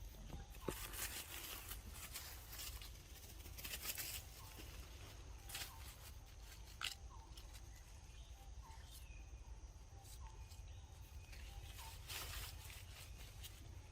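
Outdoor ambience: short chirps repeating about once a second and brief rustling noises, over a faint steady high tone and a low rumble.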